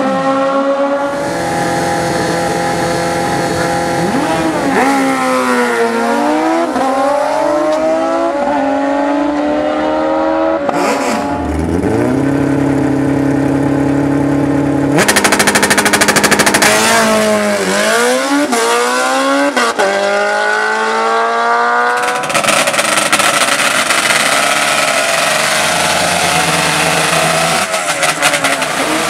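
High-revving drag-race engines accelerating hard, their pitch climbing and dropping back again and again as they rev and shift through the gears. The sound changes abruptly several times.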